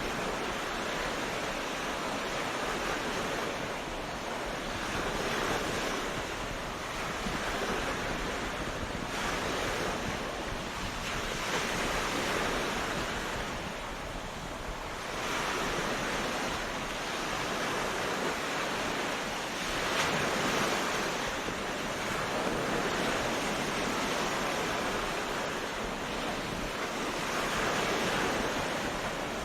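Sea waves breaking and washing up a beach, a continuous surf noise that swells and eases as each wave comes in.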